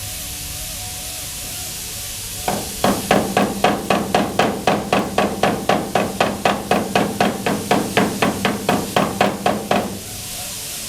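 Body hammer tapping out a dent in a Ford F-150's sheet-metal bedside: a run of quick, fairly hard strikes, about four a second for some seven seconds, starting a couple of seconds in. The panel rings with each blow.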